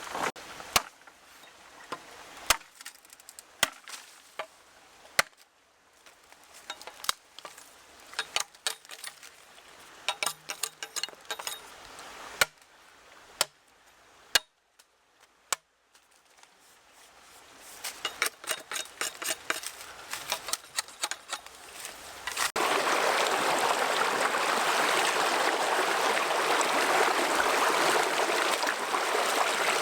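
Irregular sharp knocks and clicks, like food-prep or tool handling. About three-quarters of the way through they give way to a sudden, steady rush of running water.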